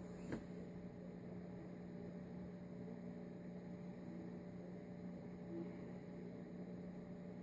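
Faint, steady low electrical hum, with one small click about a third of a second in.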